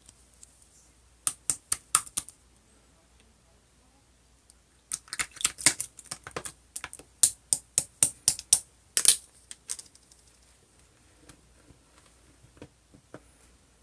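Pink pearl slime being pressed and squished, making sharp clicking pops: a short run of about five a little over a second in, a dense run from about five to nine seconds, then a few faint pops near the end.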